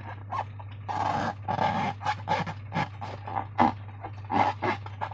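Slime being squeezed and stretched by hand: a run of short, irregular wet squelches and crackles, over a steady low electrical hum.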